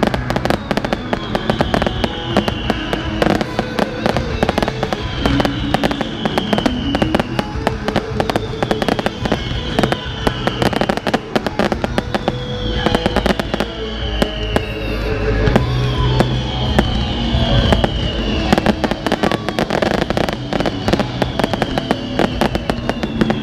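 Firework display going off: dense, rapid crackling and popping throughout, with music playing alongside, carrying a falling high tone that repeats about every second and a half.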